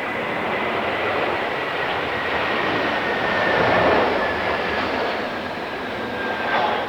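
Airbus A321 jet engines, a loud rushing noise with a slowly falling whine, swelling to a peak about four seconds in and easing off, with a brief sharp sound near the end.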